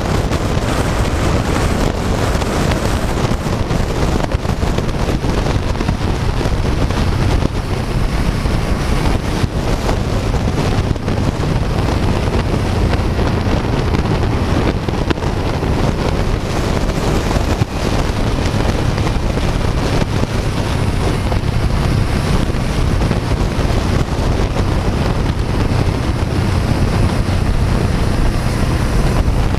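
Heavy wind noise on a motorcycle-mounted camera's microphone while riding, with the motorcycle's engine running steadily underneath.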